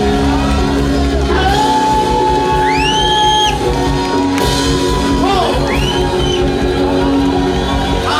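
Live church praise music, with held keyboard and bass chords under a congregation singing. Voices rise over it in shouts and high whoops that rise and fall, twice near the middle.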